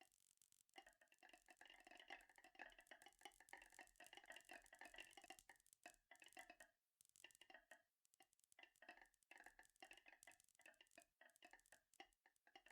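Faint marbles rolling and clicking along a marble-run track: many small quick clicks over a steady ringing rolling tone, with a brief lull about seven seconds in.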